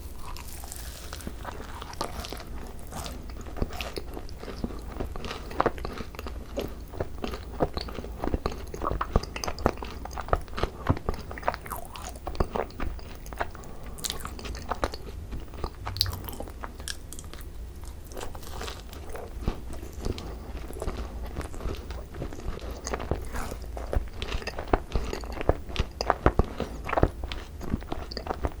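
Close-miked chewing of a thick-filled Korean macaron (ttungkaron) with crunchy corn snack in the cream: irregular crisp crunches and mouth sounds all through.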